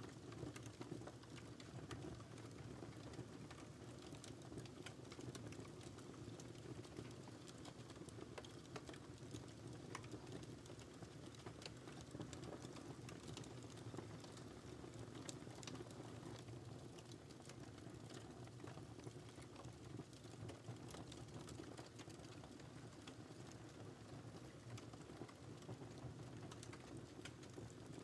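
Wood fire crackling: many small, irregular pops and snaps over a low, steady hiss and rumble of burning logs.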